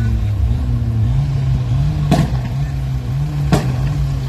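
Car engines running close by as cars roll past, one engine revved up and down repeatedly. Two sharp bangs cut through, about two seconds in and again about a second and a half later.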